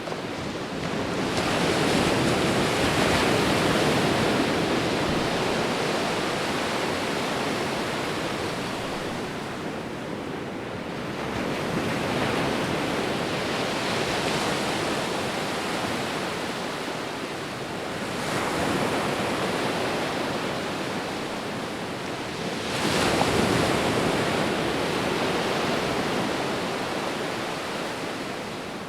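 Ocean waves rolling in: four swells of surf that each build and then slowly ebb away, the last one the loudest.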